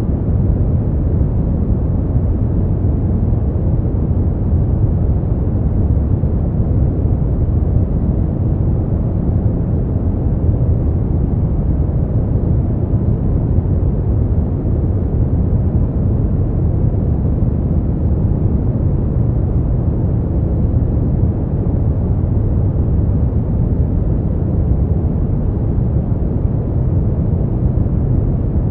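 Steady, unchanging noise for sleep, weighted heavily toward the low end: a deep, even rumble with little hiss, closer to brown noise than to true white noise.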